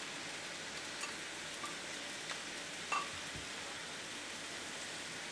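Low, steady sizzle of noodles, beef and vegetables frying in a pan as sauce is poured in, with a few faint clicks.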